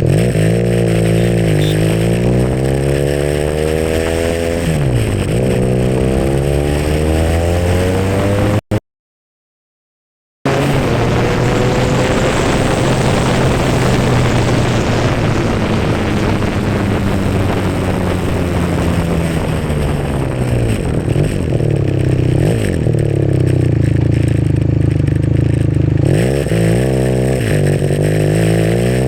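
SBM400s motorcycle engine under way, its note climbing and dropping again and again as it accelerates and slows. The sound cuts out completely for about two seconds near the one-third mark, then the engine comes back in.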